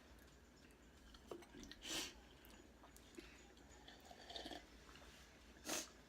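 Quiet chewing and mouth sounds of a person eating chicken wings, with a few short wet smacks, the loudest about two seconds in and near the end.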